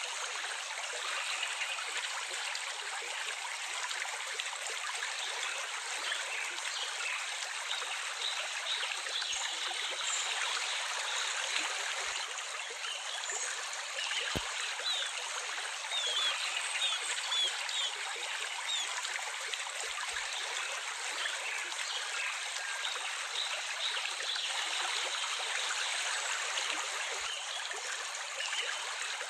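Gently running water, steady throughout, with a few faint short bird chirps about halfway through.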